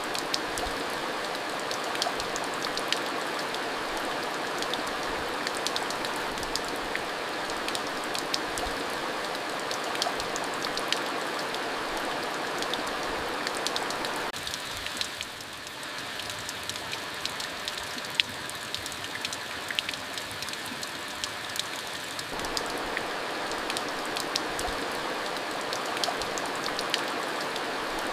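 Steady rain, with many separate drops ticking through the hiss. It eases a little for several seconds around the middle, then picks up again.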